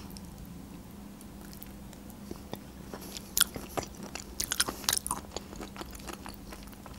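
Close-miked chewing of a soft mouthful of mushrooms in creamy sauce: scattered wet mouth clicks and smacks, more frequent from about halfway through.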